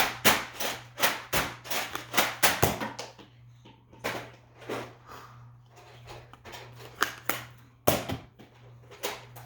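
Nerf blasters firing and foam darts hitting: a quick run of sharp clacks, about three a second, for the first three seconds, then scattered single clacks.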